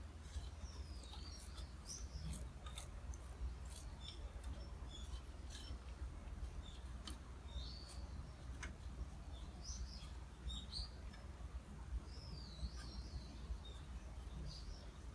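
Small birds chirping in short, scattered calls, with a few faint clicks and a steady low rumble underneath.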